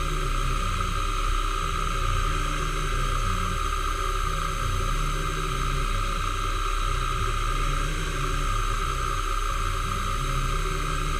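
Machine tool running steadily while machining metal, with a constant high whine.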